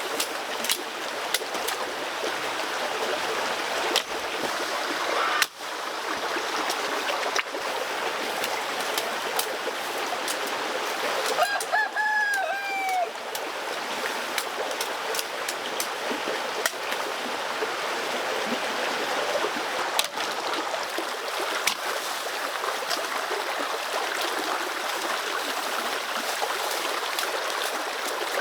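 Steady rush of running water with scattered light knocks; a chicken calls briefly with a few short notes about twelve seconds in.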